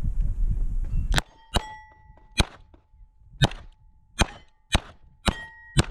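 A 9mm Beretta 92 pistol firing eight shots at steel plates in about four and a half seconds, starting about a second in. Several hits set the plates ringing with a clear tone.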